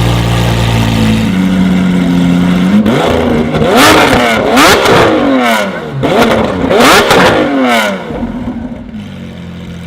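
High-performance car engine, first running steadily, then revved hard several times, its pitch climbing and falling sharply with loud peaks about four, five and seven seconds in, before easing off near the end.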